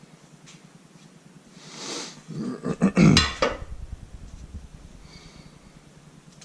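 Metal parts clanking during an LS engine teardown: a swelling scrape about two seconds in, then a quick cluster of knocks and clatter around three seconds in.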